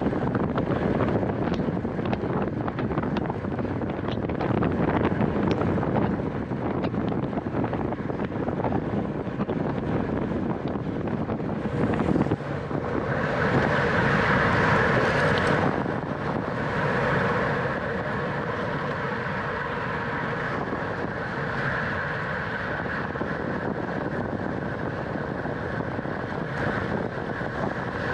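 Wind rushing over the microphone of a camera riding on a racing bicycle at speed, mixed with road and drivetrain noise. About halfway through, a steadier, higher hum joins in and carries on.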